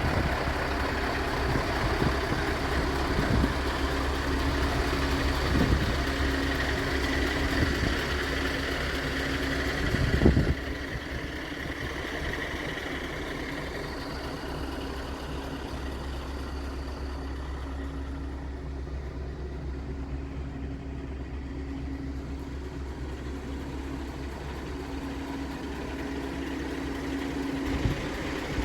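Scania R580 truck's V8 diesel engine idling steadily. A sharp thump comes about ten seconds in, after which the engine sounds quieter and more muffled.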